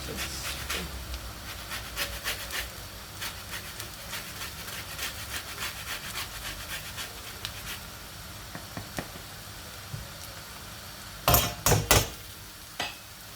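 Cooking utensil clicking and scraping in a pan with quick light ticks for several seconds, then a cluster of loud knocks on the pan about eleven seconds in and one more shortly after.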